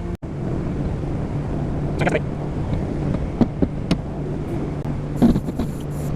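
Vehicle engine running steadily while reversing slowly with an RV, with a steady low hum. A few brief knocks or clicks come about 2 seconds in and again near the end.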